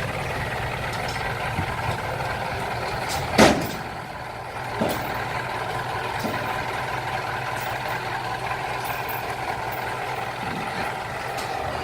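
Six-wheel dump truck's engine running steadily, with one sharp loud bang about three and a half seconds in and a smaller knock a second or so later.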